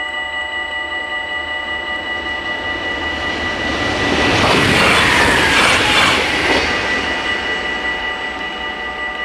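An Arriva Stadler GTW electric multiple unit passes over the level crossing, its rush of wheels and motors swelling and fading over about three seconds in the middle. Underneath, the crossing's warning bells keep ringing steadily.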